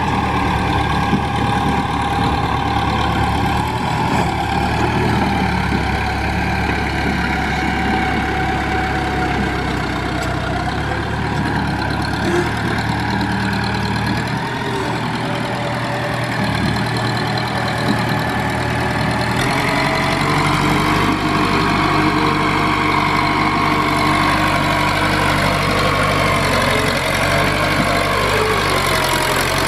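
Case DH4 trencher-backhoe's engine running steadily. Its note changes about two-thirds of the way through, and near the end one tone falls gradually in pitch.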